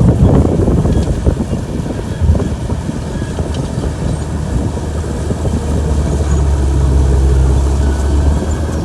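Komatsu bulldozer's diesel engine running, with the clatter of its steel tracks; the engine's low drone grows stronger in the second half.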